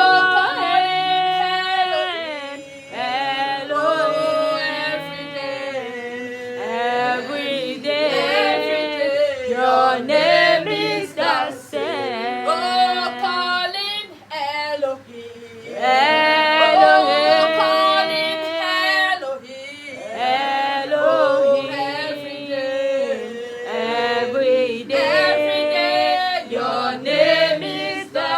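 Female voices singing a worship song in choir-like harmony, with held, gliding notes and only light accompaniment.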